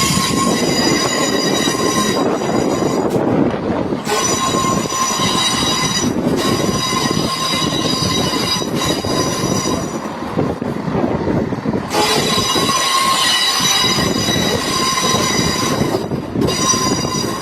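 Train wheels squealing on the rails: a high steady squeal that stops and starts again in spells of a few seconds, over the low rumble of a slow-moving train.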